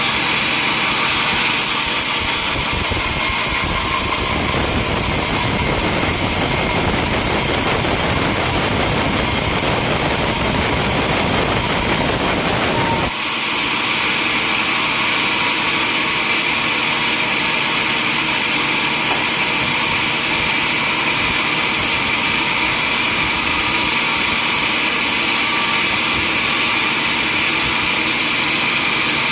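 Sawmill machinery running steadily and loudly. About thirteen seconds in, a heavier low rumble cuts off suddenly, leaving a steadier machine whirr.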